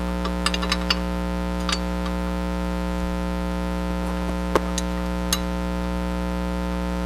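Steady electrical hum. Scattered light metallic clicks and clinks of a bracket and bolts being handled ride over it, with the sharpest clink about four and a half seconds in.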